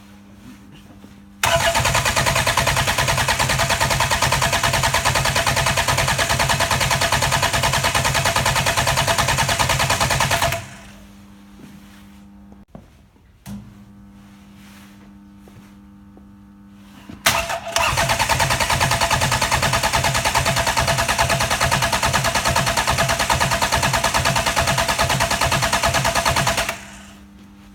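Hyundai/Kia D4EA 2.0 CRDi diesel engine turned over on its starter motor without firing, as for a compression test. There are two cranking runs of about nine seconds each, with a fast even pulse of compression strokes, each cutting off sharply.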